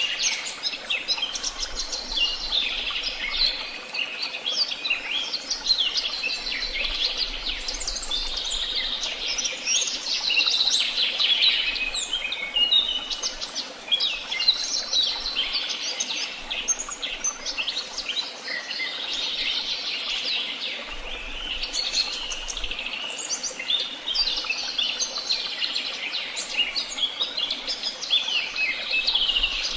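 A chorus of many songbirds singing and chirping over one another without a break: a dense tangle of short high chirps and trills.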